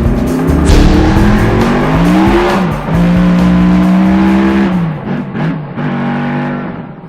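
Car engine revving up in rising pitch sweeps, holding high and then dropping away, mixed with music; the sound fades out near the end.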